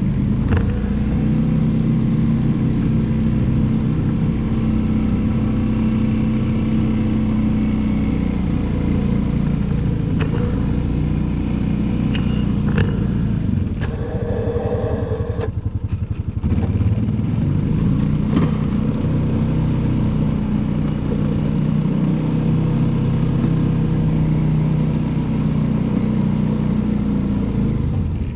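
An engine running steadily, easing off briefly about halfway through, with a few scattered clicks and knocks.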